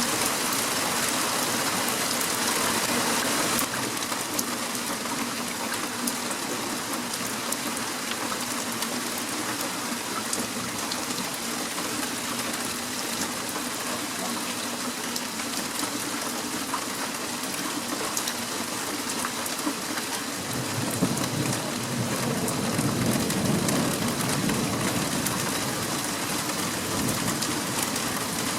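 Heavy rain falling steadily, the hiss easing slightly a few seconds in. About twenty seconds in, a low roll of thunder builds and rumbles on for several seconds.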